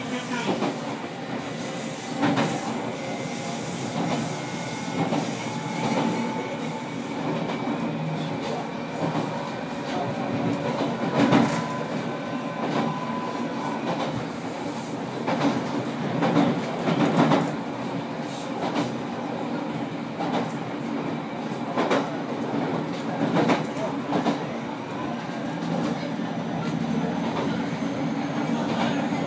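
JR Kyushu 815 series electric train running, heard from inside its rear cab: a steady rumble with wheels clacking over rail joints and points at irregular intervals, a few clacks louder midway. A faint thin squeal comes from the wheels.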